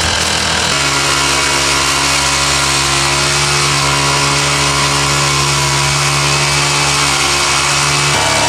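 Small gasoline engine running steadily under load. Its speed steps up less than a second in and drops back near the end.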